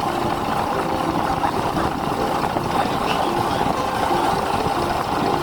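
Longtail boat engine running steadily.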